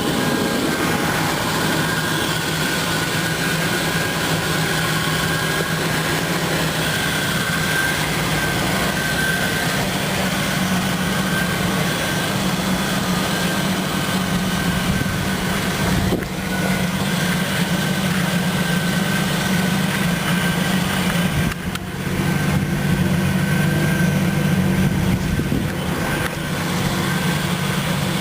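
2003 Ford Ranger's 4.0-litre V6 engine idling steadily.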